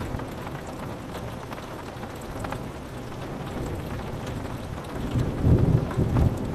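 Steady rain on a window with scattered drop ticks, and a low rumble of thunder that swells about five seconds in and fades near the end.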